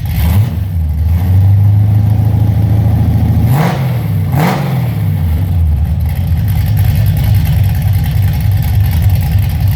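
Car engine running with a steady low exhaust note, blipped twice in quick succession about three and a half and four and a half seconds in, each rev rising and falling back to idle, likely the owner's 1985 Pontiac Trans Am.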